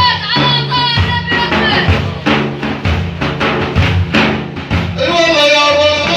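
Frame drums beaten in a steady rhythm, about three strokes a second, accompanying religious chanting of praise for the Prophet; a held sung note fades at the start and the voices come back in about five seconds in.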